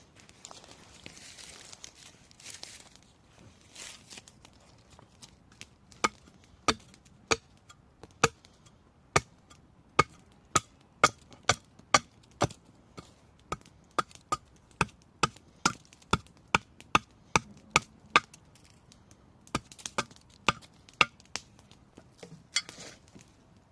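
Wood being chopped in carving: a run of sharp knocks, about two a second, that starts about six seconds in and thins out near the end, after a few seconds of soft scraping on the wood.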